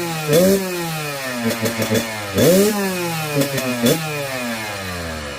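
Kawasaki KX100's two-stroke single-cylinder engine, cold, revved in a string of sharp throttle blips that hit the rev limiter. After the last blip, about four seconds in, the revs fall slowly back toward idle.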